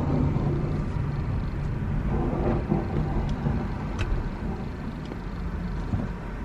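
Car engine and road rumble heard from inside the cabin of a Toyota RAV4 as it moves slowly, with a light click about four seconds in.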